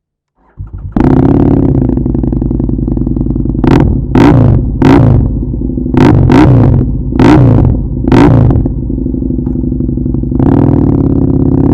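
Husqvarna Nuda 900R parallel-twin engine with an aftermarket Remus/Arrow exhaust, cranked on the starter and firing at about a second in, then idling. It is revved in about seven sharp throttle blips, some in quick pairs, before settling back to a slightly raised idle.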